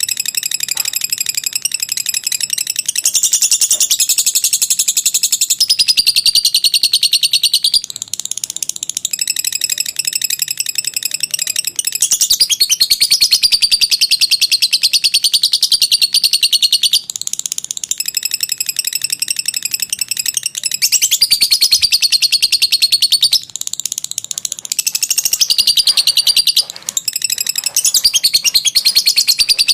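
Lovebird giving its long 'ngekek' song: a high, very rapid chattering trill that runs on in long stretches, broken by a few brief pauses.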